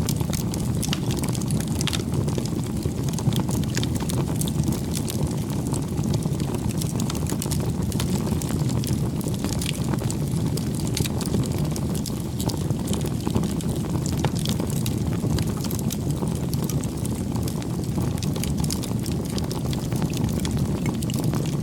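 Wood bonfire crackling, with frequent irregular sharp pops over a steady low rumble.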